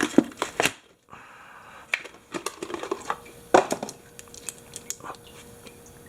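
Irregular clicks, knocks and rustling as ATV oil filters are handled, the old one just removed and the new one taken up for comparison.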